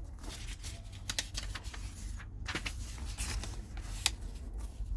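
Pages of a thick paper book being turned and handled: a run of crisp paper rustles and flicks, over a steady low hum.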